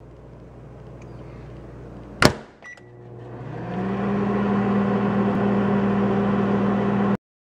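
Microwave oven: a low hum, a single sharp clunk about two seconds in, then a few small clicks and a short beep, and the oven starts up, its hum rising into a steady loud drone that cuts off suddenly near the end.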